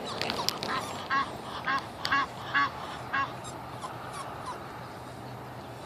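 Waterfowl calling: a run of about five short, loud calls roughly half a second apart, then a few fainter ones.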